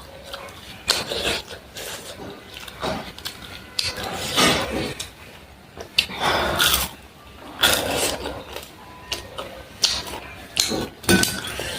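A person eating close to the microphone: irregular bites, chewing and mouth clicks.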